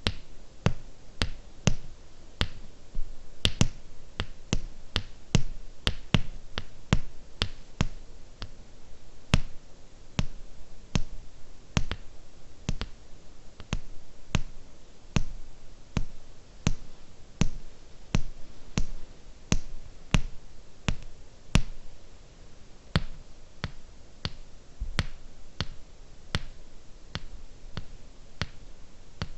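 Slow fingernail tapping on small hard objects for ASMR: crisp separate taps at about one and a half a second, some louder than others.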